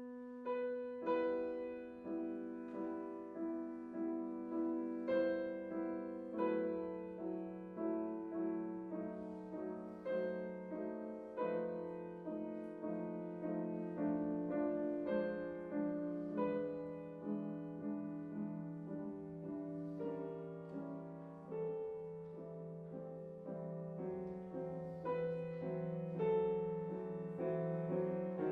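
Soft solo piano music playing, a gentle melody over sustained low notes.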